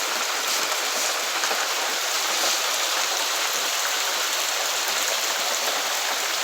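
Rain falling steadily on roof tiles: a dense, even hiss that keeps up without a break.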